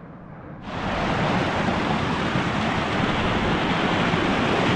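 A steady rush of wind noise that starts suddenly about half a second in and holds evenly.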